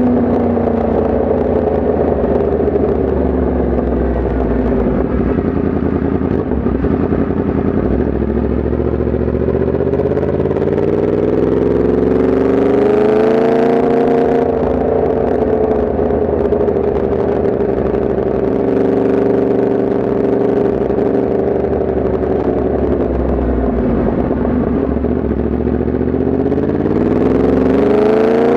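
Yamaha MT-10 SP's crossplane inline-four engine running on the move. Its pitch eases down at first, climbs as it accelerates about a third of the way in, settles, then sweeps up sharply near the end.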